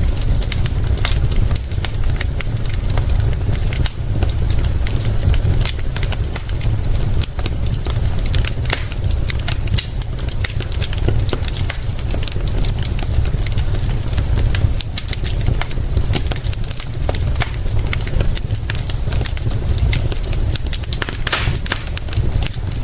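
Wood fire crackling with irregular sharp pops, over a steady hiss of rain and a constant deep rumble.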